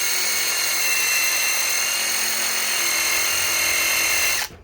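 Ryobi PSBIW25 compact impact wrench running steadily under load as it drives a 5/16 by 3 inch galvanized lag screw, with a high whine, then cutting off suddenly near the end.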